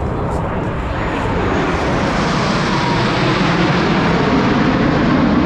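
Jet noise from a Blue Angels Boeing F/A-18 Super Hornet flying over, a steady rushing noise that slowly grows louder.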